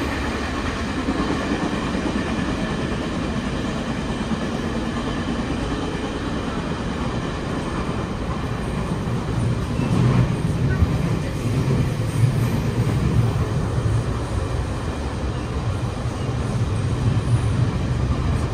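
Taiwan Railways Round-the-Island Star passenger train running, with a steady rumble of wheels on the rails heard from inside the carriage. The low rumble grows louder about ten seconds in.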